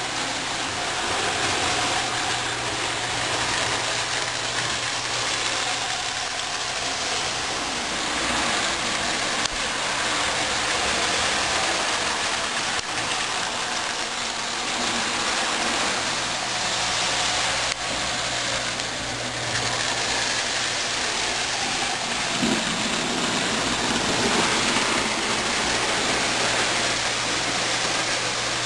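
Electric model train running on its track: a steady rolling rumble of wheels on rail with the low, even hum of the motor.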